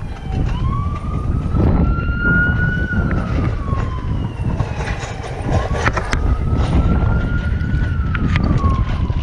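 A siren wailing in slow rising and falling sweeps, about two cycles, over heavy wind buffeting the microphone.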